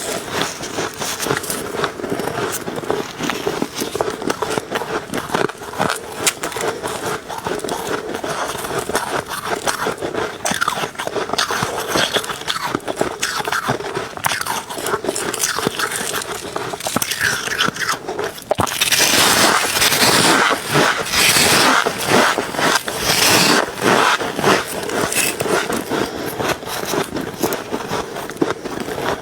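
Close-miked biting and crunching of ice, a dense run of irregular cracks and crackles, with a louder, busier stretch about two-thirds of the way through.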